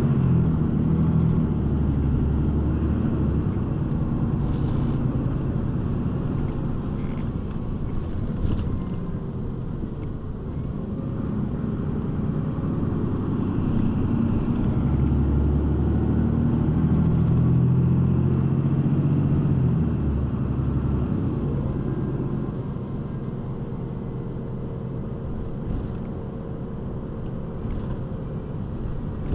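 City bus engine and road noise heard from inside the passenger cabin while the bus is driving. The engine pulls harder near the start and again about halfway through, then settles quieter toward the end.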